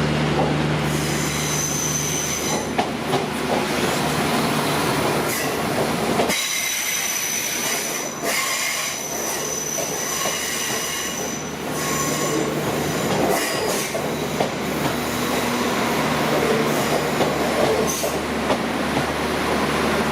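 Onboard a Northern Ireland Railways Class 4000 diesel multiple unit in motion: steady rumble of wheels on rail under a low diesel engine hum, with high-pitched wheel squeal at times. The engine hum drops away about six seconds in and comes back near twelve seconds.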